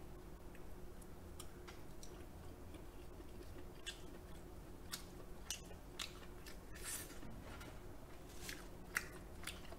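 A person chewing soft king crab meat close to the microphone, quietly, with scattered short wet clicks and smacks of the mouth.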